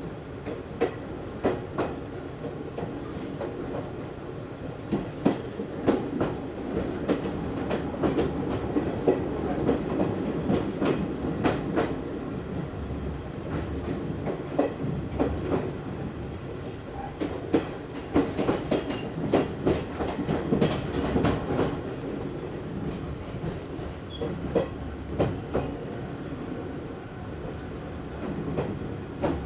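Izu Hakone Railway Series 3000 electric train running, heard inside the passenger car. There is a steady rumble, and the wheels give sharp, irregular clicks over the rail joints.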